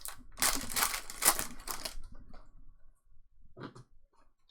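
A trading card pack's wrapper being torn open and crinkled for about two seconds, then a few faint taps.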